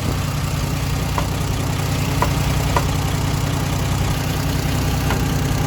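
Hall-Scott 1091 cubic-inch straight-six petrol engine of a 1958 Mack B-21 fire truck idling steadily after its first start in 30 years, with a few brief faint clicks over the rumble.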